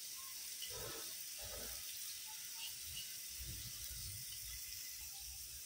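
Faint, steady hiss of ghee and chopped onion sizzling in a pot, with soft patter as split red lentils are poured in over the first two seconds.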